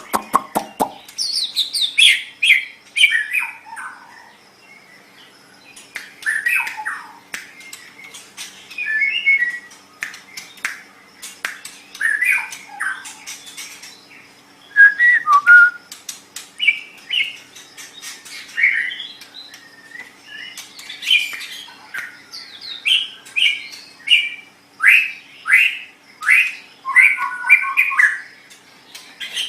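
White-rumped shama (murai batu) singing a varied, continuous song of whistled phrases that slide up and down in pitch, mixed with sharp clicking notes and harsh squawk-like calls, with short pauses between phrases.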